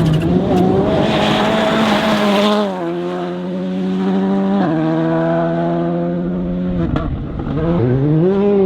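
Rally car engine running hard, its pitch holding steady and stepping down a couple of times, then dropping around seven seconds in and climbing again. A hiss rides over the engine for the first two and a half seconds.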